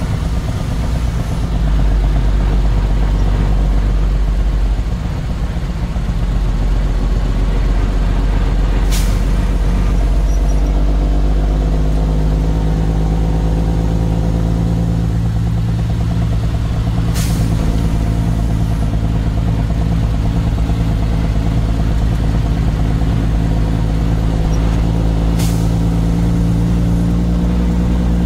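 Truck engine running steadily on the move, with a brief dip in level about five seconds in and a short sharp click about every eight seconds.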